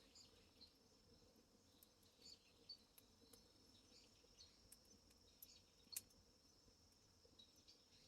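Near silence, with scattered faint crackles from a wood fire burning under a cooking pot, one louder snap about six seconds in, over faint high chirping.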